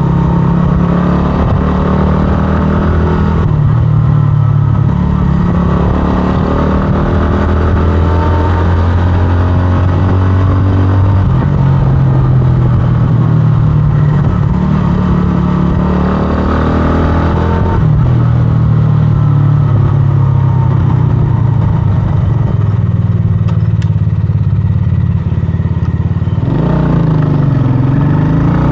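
125cc scrambler motorcycle engine running under way, its pitch rising and dropping in steps several times as the rider works the throttle and gears.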